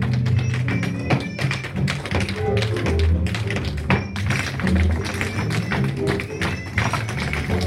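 Recorded music with a bass line, overlaid by many quick, sharp taps in rhythm, dance shoes striking a hard floor.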